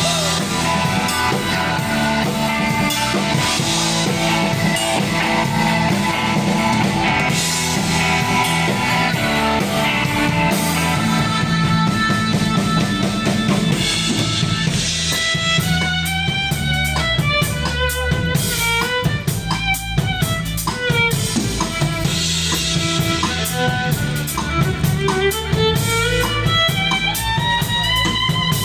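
Live rock band playing an instrumental section with drum kit and guitars, no singing. From about halfway in, a lead line runs over the drums, sliding and bending up and down in pitch.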